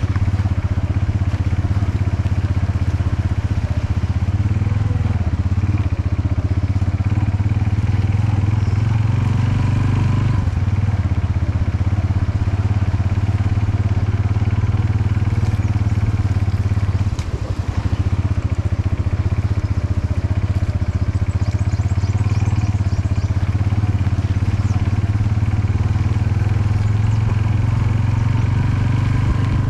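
Motor vehicle engine and road noise on the move: a steady low drone that dips briefly about two-thirds of the way through.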